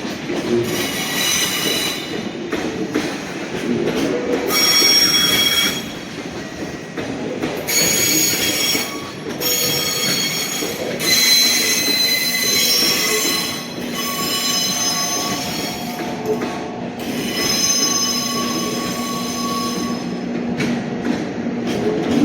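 Train moving slowly through a station, its wheels squealing in several high-pitched bursts over the rumble of the wheels on the rails. A steady low hum joins in about halfway through.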